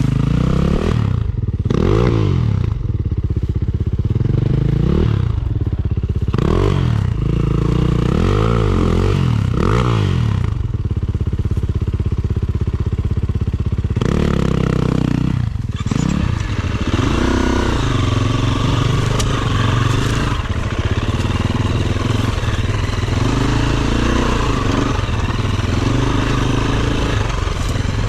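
Dirt bike engine on an enduro trail, revved up and dropped off again and again for the first ten seconds or so, then running on at a steadier, wavering pitch, with clattering and scraping from the rocky ground.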